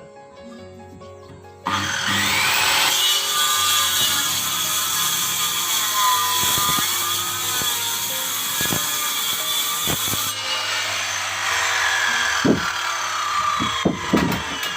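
Handheld power tool cutting wood, starting abruptly about two seconds in; its motor whine rises and falls in pitch as it bites into the wood.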